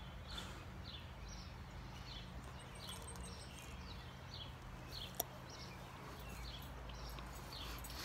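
A bird calling over and over in short, falling chirps, about two a second, faint against a low steady background hum. A single sharp click comes about five seconds in.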